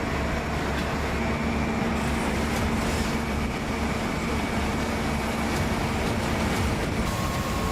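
A steady, continuous rumble with a few faint hums running through it, like heavy engines running.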